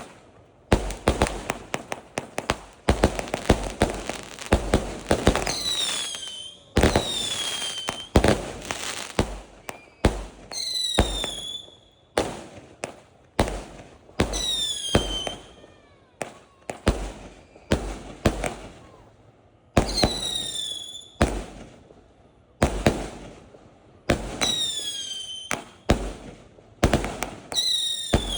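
Fireworks going off in rapid clusters of sharp bangs and crackles, with short pauses between volleys. About six times a high whistle falls in pitch over about a second.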